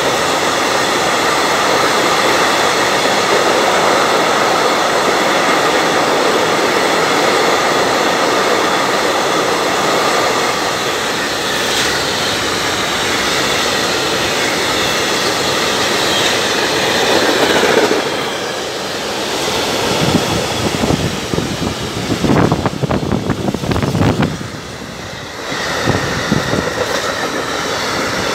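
Freight train of empty flat stake wagons rolling past close by at speed: a steady loud rolling rumble of steel wheels on rail with a faint high ringing tone over it. About two-thirds of the way through it turns into sharper, irregular clatter of wheels over the rail joints.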